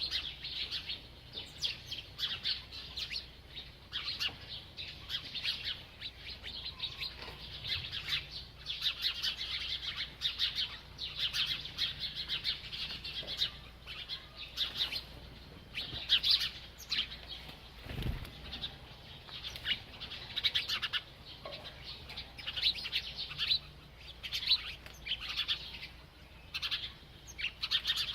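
A small bird chirping rapidly and almost without pause, high twittering in quick clusters. A soft low thump comes about two-thirds of the way through.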